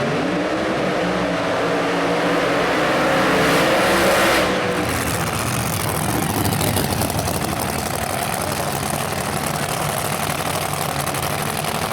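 Drag racing car engine revving up, its pitch rising for about four seconds to a peak, then dropping to a steady engine sound.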